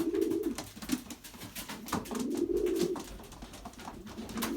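Racing pigeon cooing, three low coos about two seconds apart, with light clicks in between, typical of a cock bird driving his hen.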